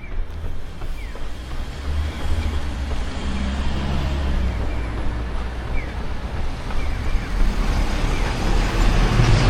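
Road traffic: vehicles passing with a low rumble, the noise swelling as one comes closer near the end.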